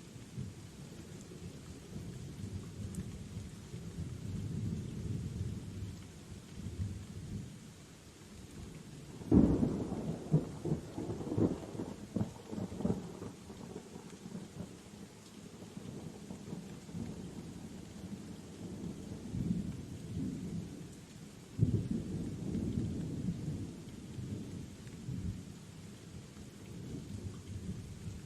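Steady rain in a thunderstorm with rolling thunder. A loud peal breaks in suddenly about a third of the way in and rumbles on for several seconds, and a second, softer rumble starts about two-thirds of the way through.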